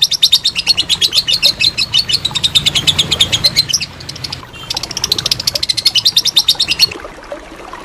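Lovebird giving its long 'ngekek' chatter: a rapid run of sharp, high chirps, about ten a second. It breaks off briefly about four seconds in, resumes, then stops about a second before the end.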